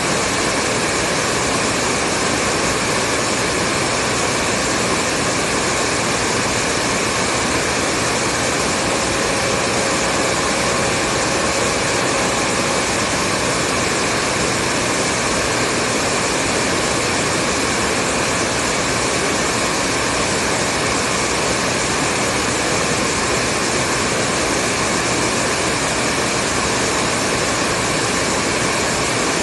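Hair dryer running steadily, a constant loud rushing hiss of air with a faint motor hum underneath, played as continuous white noise for sleep.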